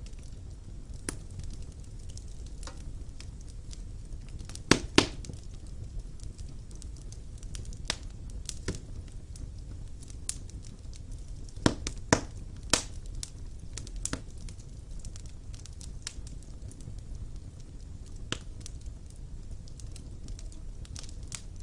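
Wood fire burning in a stone fireplace: a steady low rumble of the flames with irregular sharp crackles and pops, the loudest a close pair about five seconds in and a cluster about twelve seconds in.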